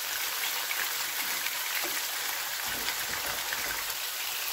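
Chopped tomatoes, green chillies and ground spices sizzling in hot oil in a nonstick frying pan: a steady hiss, with light scrapes and taps of the spoon as the masala is stirred.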